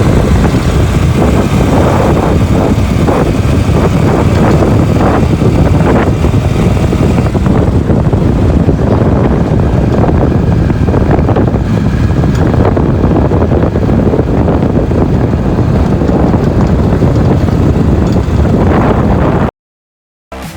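Loud, steady rumble of a moving vehicle with wind buffeting the microphone, cutting off suddenly near the end.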